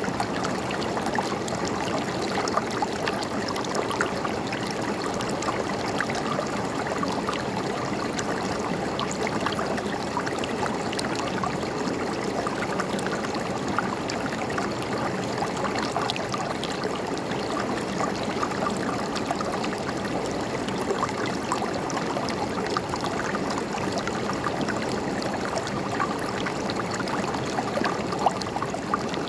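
A river or stream running steadily over rocks, with gurgling and small splashes.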